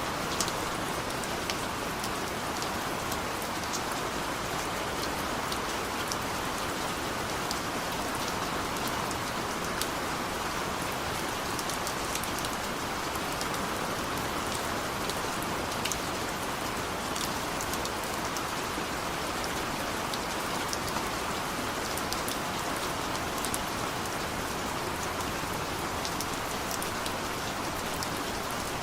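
Steady heavy rain falling, a constant hiss with many individual drops pattering on surfaces.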